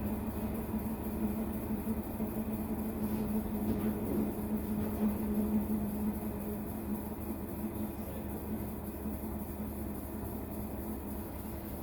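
Maytag MVWX655DW1 top-load washer running its tub clean cycle, its motor giving a steady low hum and rumble that swells slightly around the middle and eases a little near the end.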